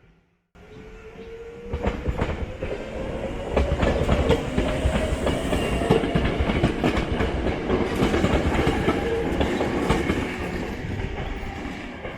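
A train passing close by, its wheels clicking over the rail joints, with a faint tone that rises slowly. The sound builds about two seconds in and fades near the end.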